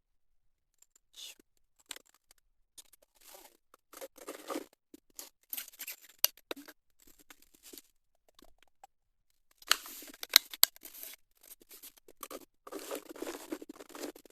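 Gravel bike rolling over a rough forest track: irregular bursts of crunching and scraping from the tyres on loose stones, with a few sharp clicks and short quiet gaps between them.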